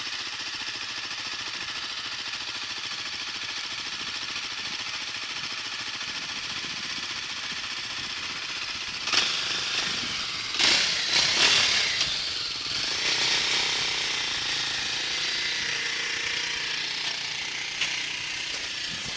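Dirt bike engine running with a fast, rattling buzz. Between about nine and twelve seconds in there are a few sudden louder bursts, and the sound then swells and changes as the engine note shifts.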